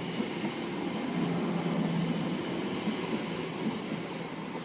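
Class 345 electric multiple unit pulling out of the station, a steady rumble of wheels and motors with a low hum that swells briefly, then easing off as the train draws away.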